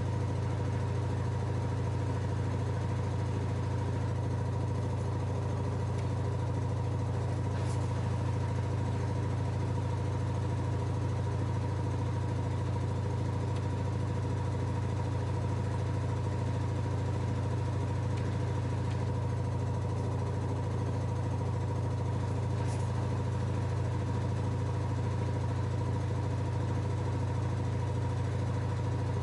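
LG F10A8HDS5 washing machine running with a steady, unchanging low hum.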